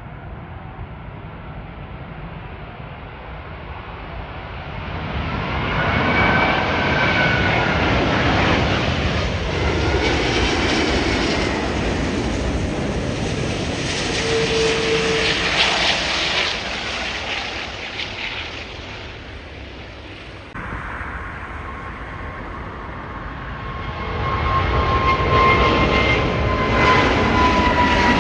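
Jet airliner passing close by, its engine noise swelling up and fading away, with a whining tone that slides down in pitch as it goes past. About 20 seconds in the sound changes abruptly and a second jet builds up loud near the end.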